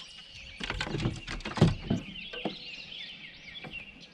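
Songbirds chirping and singing continuously, with a run of sharp knocks and clatters from about a second in, the loudest near the middle.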